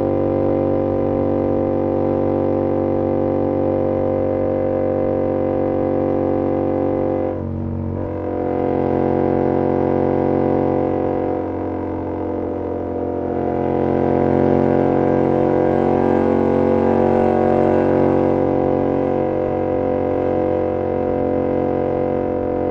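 2022 Yamaha R7's parallel-twin engine through an SC-Project CR-T exhaust, running at steady cruising revs. There is a brief dip in the sound about seven seconds in, after which it holds steady again.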